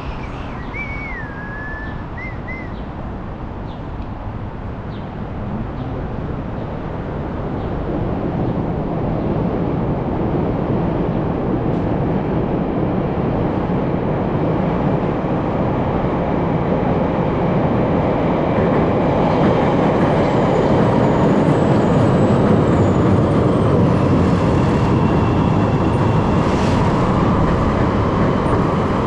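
Steady rush of wind and road noise while riding a bicycle, slowly growing louder, with a short high squeak and two chirps near the start.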